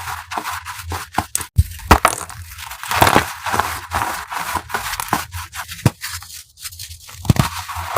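Crunchy chalk being crushed: a dense, irregular run of dry crunches and sharp crackles.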